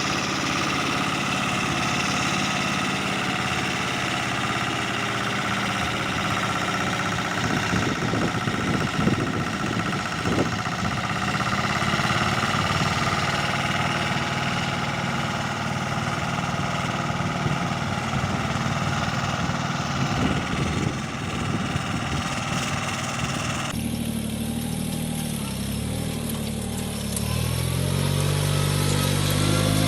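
Small tractor engine running steadily, with scattered knocks and rattles. After an abrupt change about 24 s in, another small engine revs up near the end.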